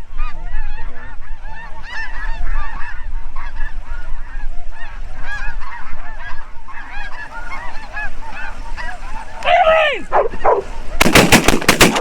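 A flock of snow geese calling in a dense chorus of short honks overhead. A loud falling cry stands out near the end, then a rapid volley of shotgun blasts goes off in the last second as the hunters open fire on the decoying birds.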